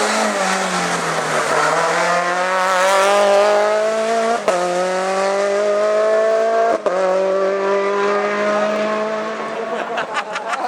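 Hillclimb race car accelerating hard. The engine's pitch climbs between two quick upshifts, about four and a half and seven seconds in. Near the end it eases off with a few sharp cracks.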